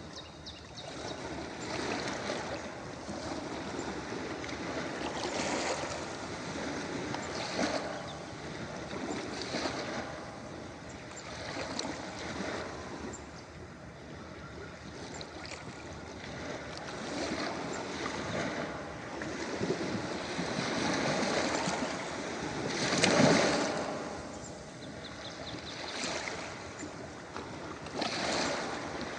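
Ocean waves breaking and washing on a beach, in uneven surges a few seconds apart, with the loudest wave about three quarters of the way through.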